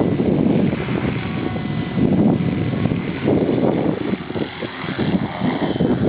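Wind buffeting the microphone in uneven gusts, with the faint steady whine of an electric T-Rex 450 RC helicopter's motor and rotor underneath.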